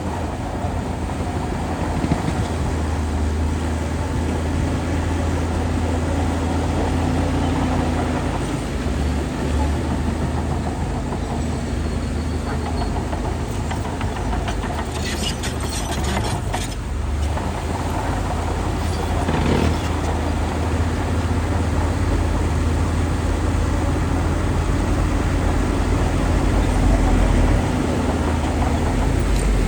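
Shantui DH17C2 bulldozer's diesel engine running steadily under load while pushing soil, with a few short metallic clanks and squeals around the middle.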